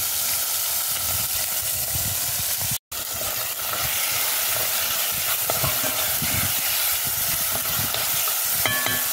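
Saltfish, onions, tomatoes and peppers sizzling steadily in hot oil in a cast-iron pot over charcoal. The sound cuts out for a split second about three seconds in.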